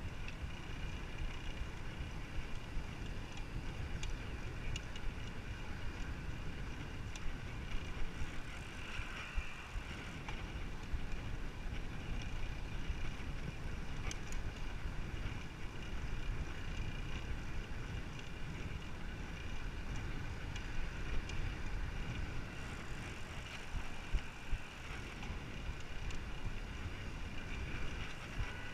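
Wind rushing over the microphone of a camera riding along on a bicycle: a steady low rumble that goes on without a break, with faint ticks and a light higher hum.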